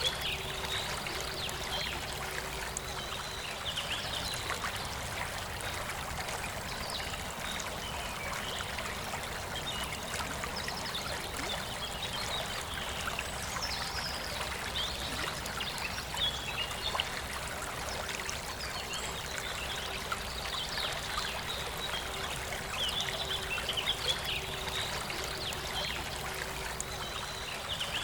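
A forest river flowing steadily, with birds chirping in short bursts now and then.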